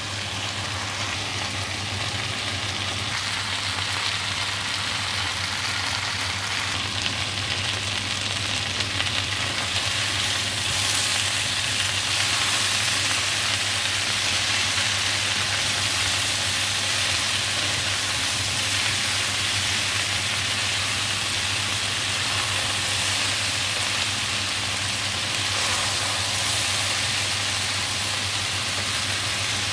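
Potatoes, mushrooms and freshly added sliced onion sizzling in hot oil in a frying pan, being stirred and turned with a spatula. The sizzle grows a little louder about ten seconds in, over a steady low hum.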